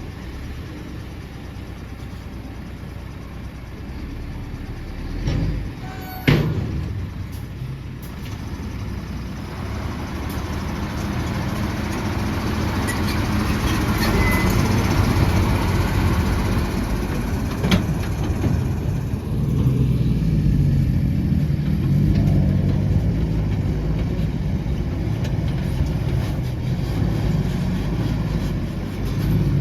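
Heavy diesel machinery, an excavator and dump trucks, running steadily under load. There is one sudden sharp sound about six seconds in, and the engine noise grows louder from about ten seconds on.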